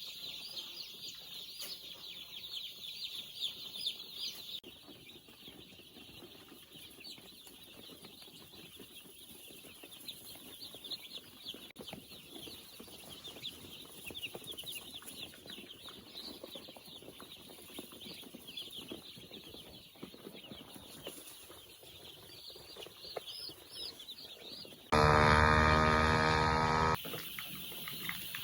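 A flock of chickens calling, a dense chatter of short high peeps. Near the end a loud steady hum cuts in for about two seconds, then stops suddenly.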